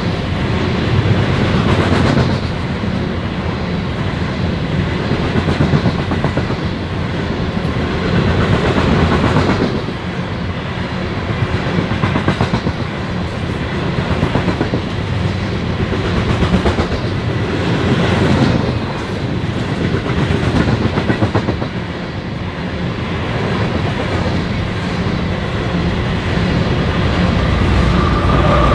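Long freight train of coal cars rolling past on the mainline: steel wheels on the rails with a steady rumble and clickety-clack that swells and fades every few seconds as the cars' trucks go by.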